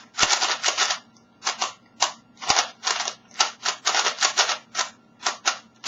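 Haiyan's 3x3 speed cube being turned by hand in quick runs of moves, its plastic layers clacking in rapid bursts with short pauses between, and two brief low knocks from handling.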